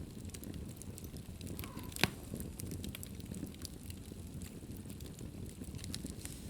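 Fire crackling in a fireplace, with small scattered crackles over a low rumble of the flames and one sharp, loud pop about two seconds in.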